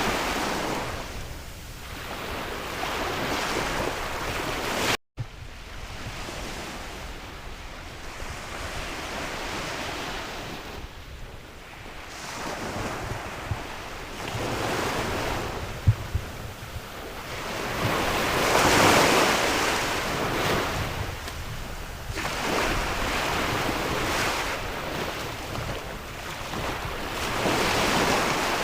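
Sea waves washing in and drawing back, surging every few seconds, with wind blowing across the microphone. The sound cuts out for a split second about five seconds in, and there is one sharp click near the middle.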